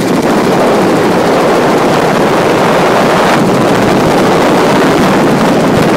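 Helicopter in flight: a loud, steady rush of wind and rotor noise on the microphone.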